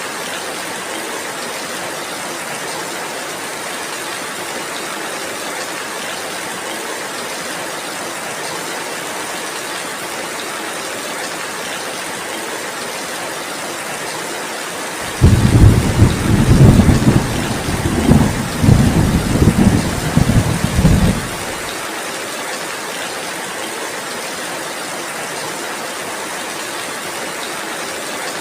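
Steady heavy rain hissing, with a thunder rumble that breaks in suddenly about halfway through, pulses for about six seconds, and fades back under the rain.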